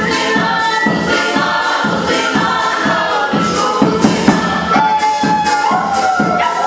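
Music with a steady beat, about two beats a second, and a choir singing.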